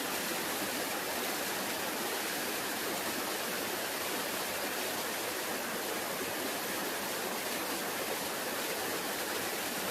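Forest river flowing and splashing over rocks, a steady even rush of water.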